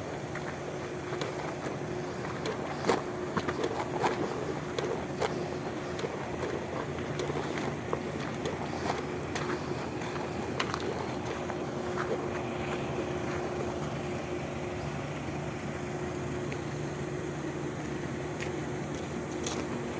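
A steady motor hum under scattered light clicks and knocks from work on a metal frame.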